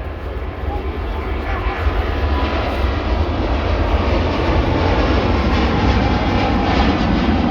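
Airliner engine noise, a steady roar with deep rumble, growing steadily louder.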